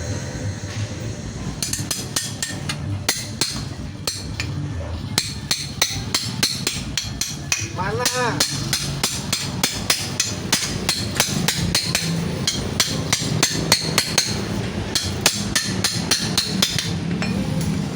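Repeated hammer blows, a few a second at an uneven pace, knocking apart a scrapped one-door refrigerator. A brief wavering squeal comes about halfway through.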